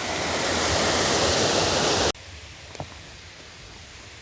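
Rushing water of a creek pouring over a man-made waterfall, a loud, steady roar that cuts off abruptly about halfway through, leaving a much quieter background with a few faint clicks.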